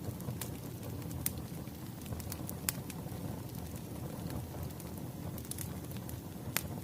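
Wood fire crackling over a steady low rumble, with irregular sharp pops of burning firewood, the loudest a few seconds apart.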